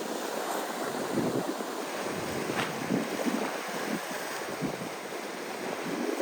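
Steady rush of sea waves washing, with wind on the microphone.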